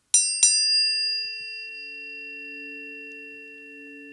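Mercury and Venus planetary tuning forks struck one after the other, each with a bright metallic click. Two steady pure tones then ring on together and slowly fade.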